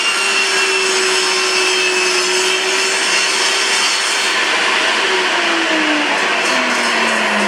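Bosch GTS 254 table saw running at speed with a steady whine. About five seconds in it is switched off and the pitch falls as the blade spins down.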